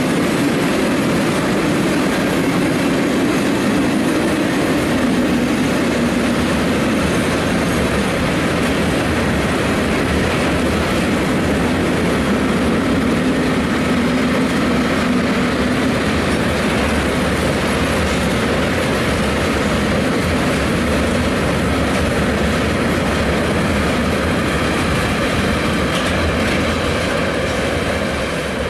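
Tank wagons of a long freight train rolling past at steady speed: a continuous rumble of steel wheels on rail. It eases slightly near the end.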